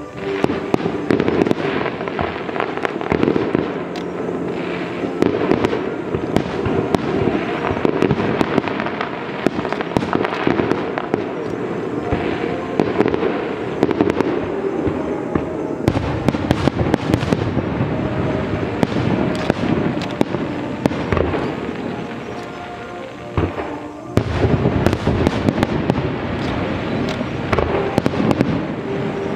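Fireworks display: a dense, continuous barrage of bangs and crackling pops, easing briefly twice before surging again.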